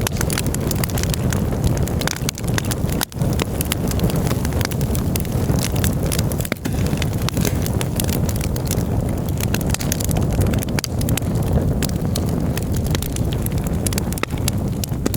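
Campfire burning: wood crackling and popping in quick, irregular snaps over a steady low rumble.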